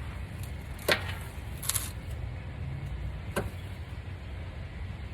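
Hand tools knocking and scraping against metal under a car: three sharp clicks, the middle one a short scrape, as the tool slips on a greasy fitting.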